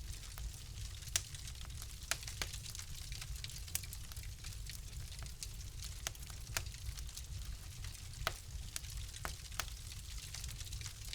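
Wood fire in a fireplace crackling: irregular sharp pops and snaps over a steady low rumble of the flames and a soft hiss.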